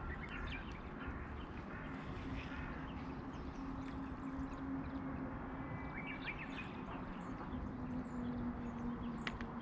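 Small birds chirping now and then over a steady low hum and outdoor background noise.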